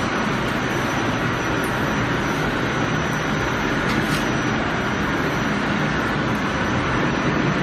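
Continuous carbonization furnace machinery running: a steady, even din of blowers and motors with a low hum and a faint high whine, and a couple of light clicks, one at the start and one about four seconds in.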